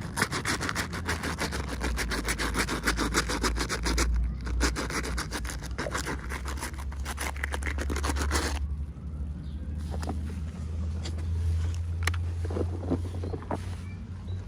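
Toy packaging being handled and unwrapped: a dense, rapid scraping and rustling for about eight seconds, then scattered light clicks and taps, over a steady low hum.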